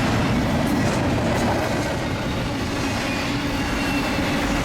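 Union Pacific freight train rolling past at speed, a steady rumble of its wheels on the rails.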